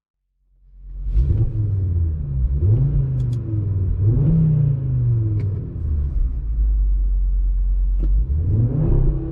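Audi RS3's turbocharged 2.5-litre inline-five petrol engine and exhaust, fading in after a moment of silence and revving up and down several times, then settling low before rising again near the end. A sharp click comes about eight seconds in.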